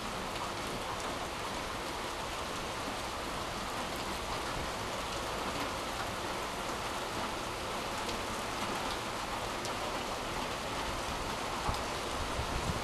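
Heavy rain pouring steadily, an even hiss of downpour, with one brief tap near the end.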